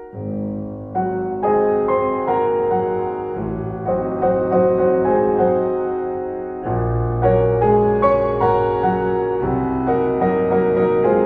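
Background piano music: chords and a melody of struck notes ringing and dying away, with low bass notes.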